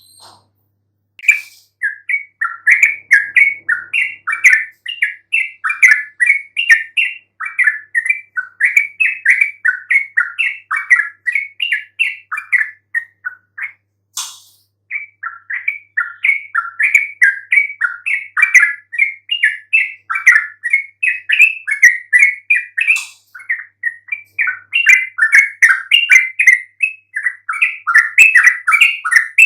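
Yellow-vented bulbul (trucukan) singing a fast, continuous chatter of bubbly, warbling notes, with a short break about halfway through. It is the lively 'gacor' song used to provoke other trucukan into answering.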